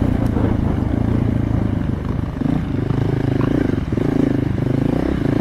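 Dual sport motorcycle engine running as the bike is ridden along a dirt trail, with a few short dips in the engine note as the throttle eases off and comes back on.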